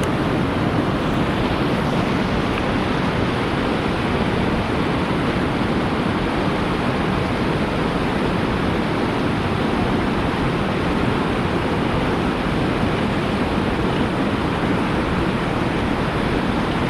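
Steady, even rushing noise with no distinct strokes or knocks, cutting off suddenly at the end.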